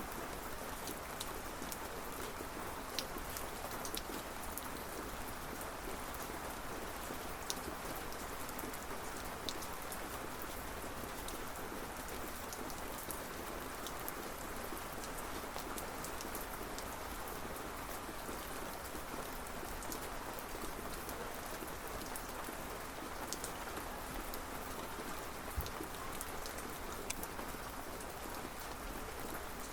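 Steady rain falling, with a constant hiss and individual drops ticking sharply here and there.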